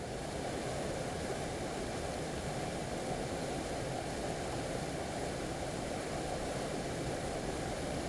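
Oirase mountain stream flowing: a steady, even rushing of water.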